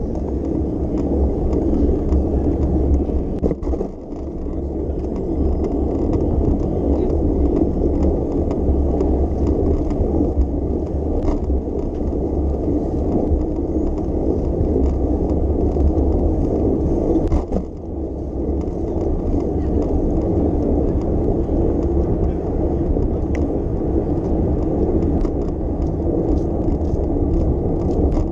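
Steady low rumble of riding a bicycle along city streets: wind and tyre noise, with faint ticks and street sounds, dipping briefly twice.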